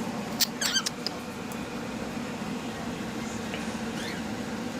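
Pet cockatiels giving short, high chirps: two sharp ones about half a second in, then a few fainter ones near the end, over a steady low hum.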